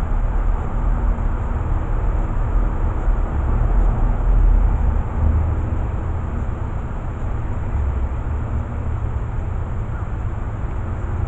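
Steady outdoor low rumble with a faint hum, swelling a little around the middle, and a thin high steady hiss above it.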